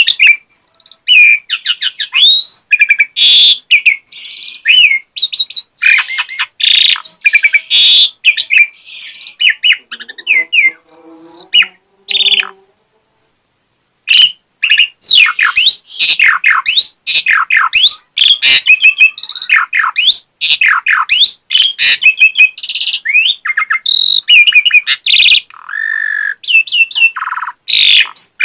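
Asian pied starling (jalak suren) in full song: a rapid, unbroken run of varied whistles, chirps and harsher chattering notes, with mimicked phrases worked in. The song breaks off for about a second and a half midway, then resumes just as densely.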